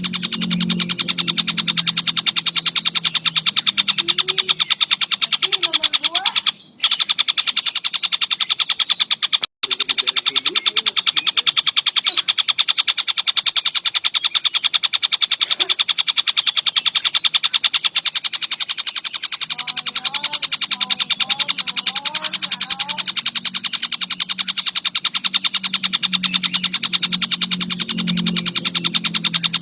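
Tengkek buto (a kingfisher) calling continuously in a fast, unbroken chatter of sharp, high notes. There are two brief dropouts, and a low hum sits under the calls near the start and end.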